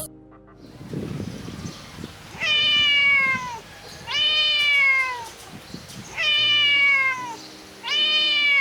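Kitten meowing four times, each call about a second long and sliding down in pitch.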